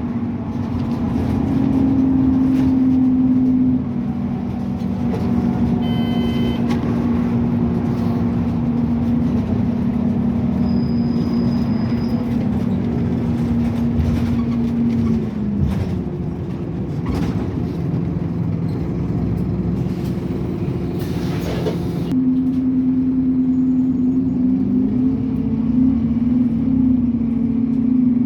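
Scania N270UD OmniCity double-decker bus's engine and drivetrain running under way, heard on board, with a strong steady whine. The pitch drops about halfway as the bus eases off, then climbs again near the end as it pulls away under power.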